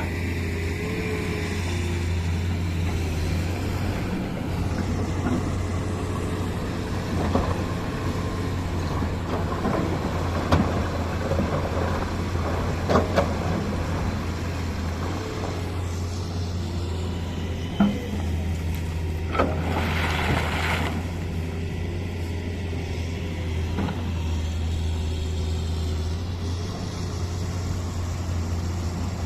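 Heavy diesel machinery running steadily with a low drone, with a few sharp clanks and knocks and a short hiss about twenty seconds in.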